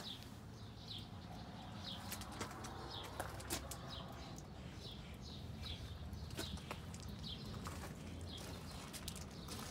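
A bird chirping over and over, short falling chirps about once or twice a second, over a low steady rumble, with a few sharp clicks.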